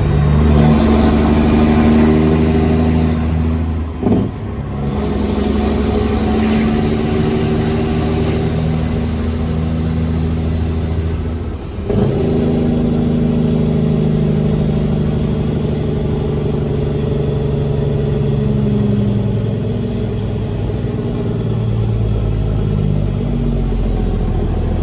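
Peterbilt semi-truck's diesel engine pulling under load, working up through the gears with brief breaks for shifts about 4 and 12 seconds in. A high whine rises and falls between the shifts.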